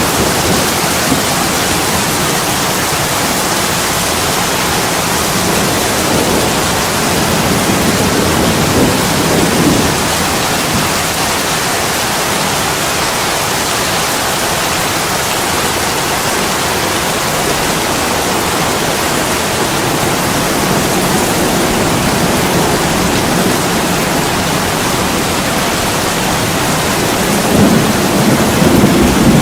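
Heavy rain pouring steadily onto an attic window, a dense even hiss. Low rumbles swell up about a third of the way in and again near the end.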